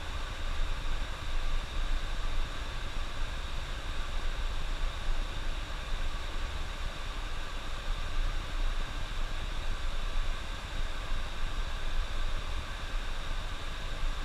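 Steady driving noise inside a moving bus: a low engine and road rumble under an even hiss from the tyres on the road.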